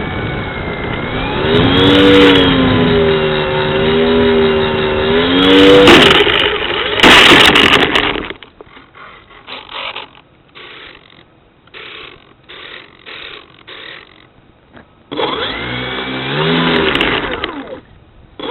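Brushless electric motor and propeller of an RC plane, heard through a wing-mounted camera, with wind rush. The motor's pitch wavers and glides with the throttle, drops back after about eight seconds to a string of short bursts, then comes up loud again with a rising pitch near the end.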